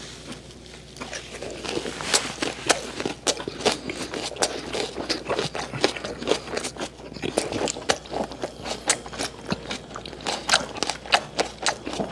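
A person chewing a mouthful of a gwamegi wrap right at a small microphone held to his mouth: irregular wet, crunchy clicks, several a second.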